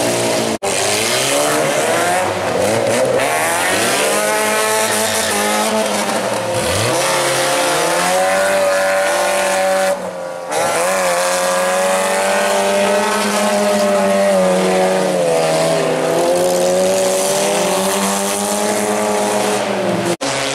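Engines of several old wreck-race cars revving hard on a muddy dirt track, rising and falling in pitch as the drivers accelerate and lift off. Several engines are heard at once. The sound breaks off for an instant about half a second in, around ten seconds in, and near the end.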